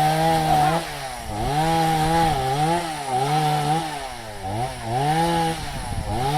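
Chainsaw running under load, its engine pitch repeatedly sagging and recovering as it cuts into wood.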